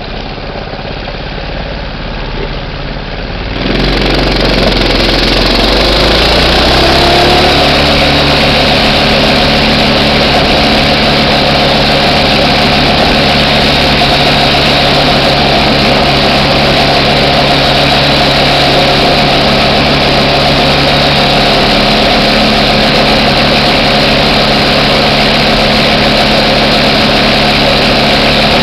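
Small minibike engine running: quieter for the first few seconds, then louder about four seconds in, its pitch rising over a few seconds and then holding steady as it runs on at speed.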